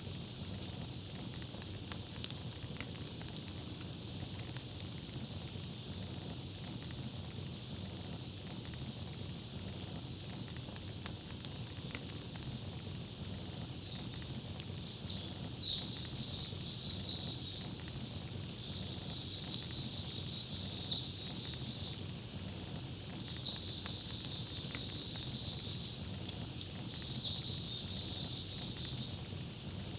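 Campfire crackling with scattered small pops. From about halfway a songbird repeats a phrase about five times: a sharp falling whistle followed by a fast trill.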